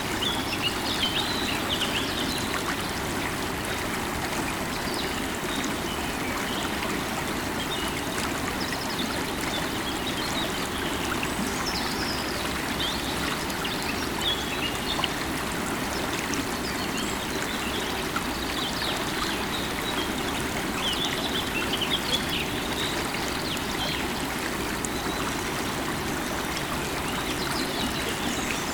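River water running steadily over rocks, with small birds chirping in short scattered bursts above it.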